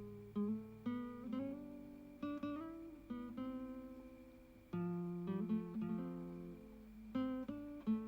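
Acoustic guitar playing a solo melody, single plucked notes and strummed chords that ring and fade, as background music.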